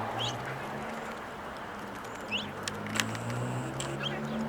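Three short rising bird chirps over a low steady hum, with a sharp click about three seconds in.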